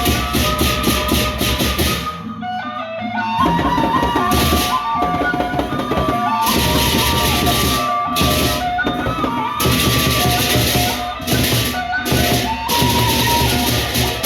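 Gendang beleq ensemble playing: large drums keep a steady beat under a held melodic line, while clashing cymbals come and go in stretches, dropping out briefly about two seconds in.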